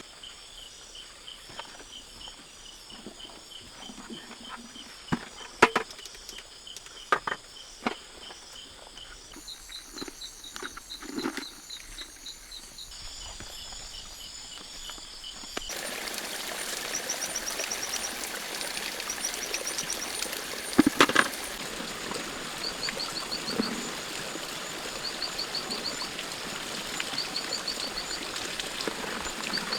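Rainforest insects calling in steady, evenly repeated trains of high chirps, with a few sharp knocks and clicks, the loudest about five, seven and twenty-one seconds in. About sixteen seconds in a louder steady hiss comes in under the chirping.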